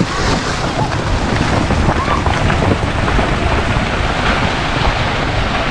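Steady wind buffeting the microphone: a dense, unbroken rushing noise that is heaviest in the low end.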